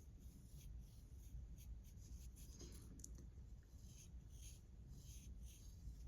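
Faint pencil strokes scratching on paper, a series of short strokes.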